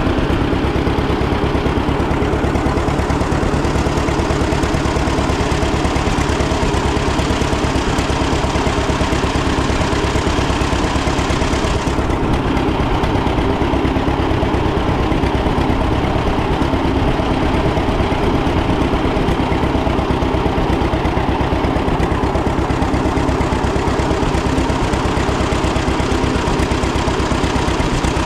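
1936 John Deere A's two-cylinder engine running steadily at idle, its firing pulses even throughout.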